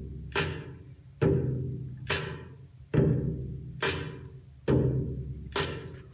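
Song intro played through a car's aftermarket audio system: deep drum strikes about once every 0.85 s, alternating stronger and weaker, each with a sharp attack and a low ringing tone that dies away.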